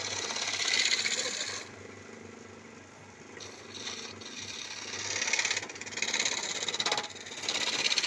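A wood lathe running with a low steady hum while a turning chisel cuts into the spinning wood in several separate cuts, each a scraping hiss lasting about half a second to a second and a half.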